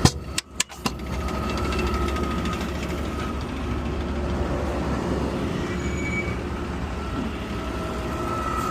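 Garbage truck running steadily, a low rumble with a steady high whine over it, after a sharp knock right at the start.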